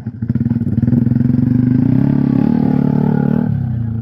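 Off-road motorcycle engine running under throttle, rising in level about halfway through and easing off shortly before the end.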